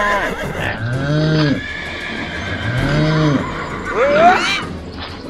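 Farm animal calls: two low arching calls about one and three seconds in, then a horse whinnying with a rising call near the end.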